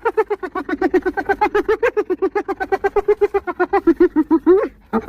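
Spotted hyena giggling: a long run of short, quick high-pitched whooping notes, about eight a second, ending in an upward-swooping note and a brief break near the end.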